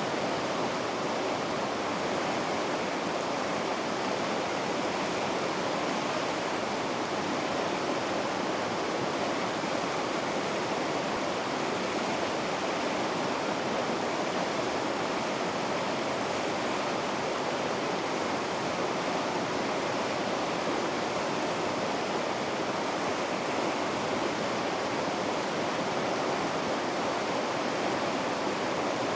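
River rapids: white water rushing steadily and without a break, an even hiss-and-rush of noise.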